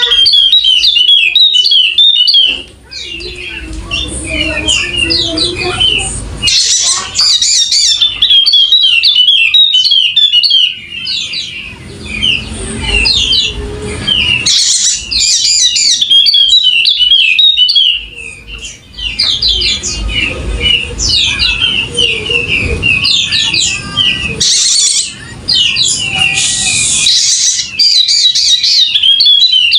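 Wallacean white-eye singing loudly and continuously: a fast, chattering song of rapid high chirps and trills, phrased in bursts a few seconds long with brief pauses.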